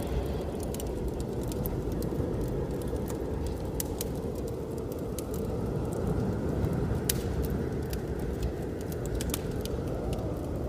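Wood fire crackling in a fireplace, with sharp pops scattered irregularly, over a steady low rush of blizzard wind.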